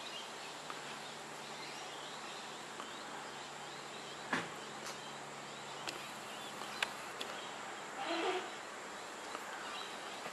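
Quiet outdoor background: a steady hiss of insects with faint small bird chirps, broken by a few sharp clicks, the loudest about four seconds in, and a brief louder sound about eight seconds in.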